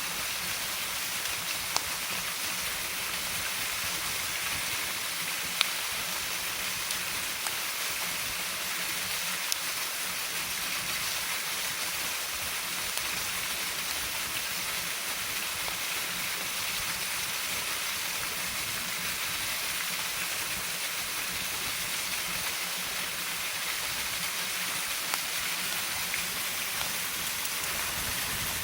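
Steady rushing of a waterfall, with a few single sharp crackles from a wood campfire.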